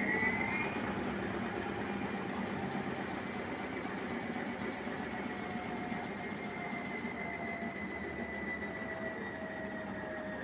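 Primus 12 kg commercial washing machine in its final spin. The motor's whine finishes rising about half a second in, then holds at top speed and sags slightly, over a dense rumbling noise. The drum is spinning a very unbalanced load.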